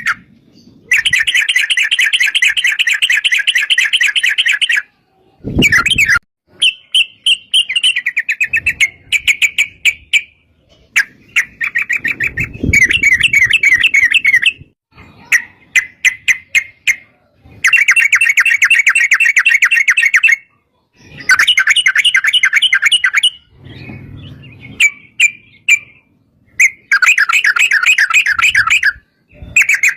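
Yellow-vented bulbuls (trucuk) singing long, fast, rolling chattering phrases, one after another with short pauses between them.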